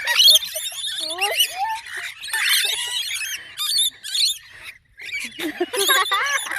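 A group of small birds chirping and squeaking busily, many quick up-and-down calls overlapping, with a short break just before five seconds in.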